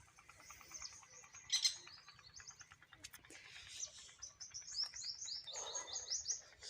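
Small birds chirping and singing in quick runs of short high notes, with one sharp, louder note about a second and a half in and a fast series of descending notes in the second half.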